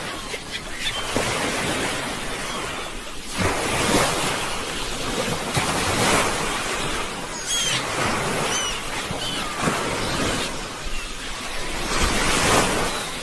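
Sea waves washing and breaking on the shore, a continuous surf with several louder swells every few seconds.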